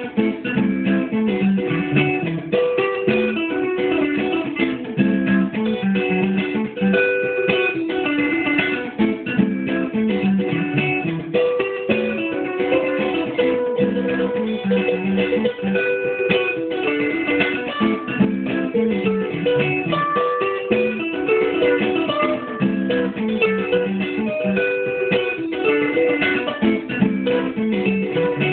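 Guitar playing: a steady run of plucked notes with some strummed chords, recorded with a dull, muffled top end.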